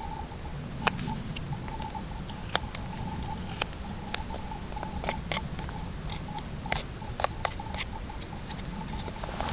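Scattered light ticks and clicks at irregular intervals over a steady low rumble.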